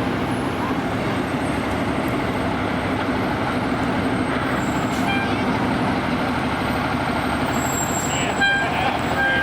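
Fire truck running steadily, with a short horn toot about five seconds in and a longer horn blast near the end.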